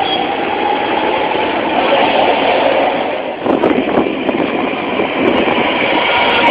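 BART rapid-transit train running on the rails: a steady noise with one thin tone that slowly rises in pitch, with a brief dip and flutter about halfway through. Recorded through a cell phone microphone.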